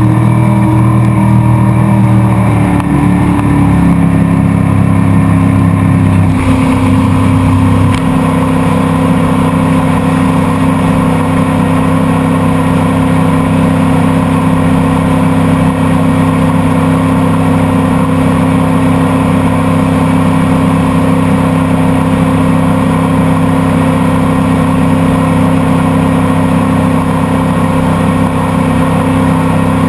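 Motorboat engine running loud. In the first several seconds its pitch drops as it slows, then it holds at a steady, lower speed.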